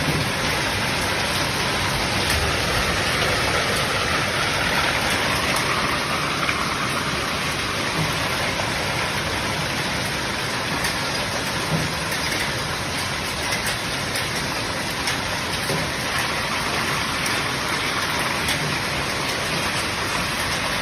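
Heavy storm rain falling steadily, with scattered sharper ticks of drops or hailstones striking a surface.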